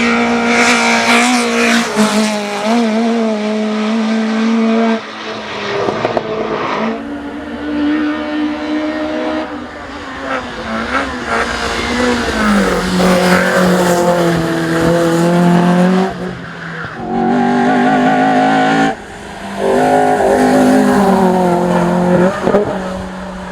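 A hillclimb race car's engine at high revs, pulling hard and shifting through the gears: the pitch holds, rises and drops several times, and twice in the latter part the sound cuts briefly as the driver lifts off.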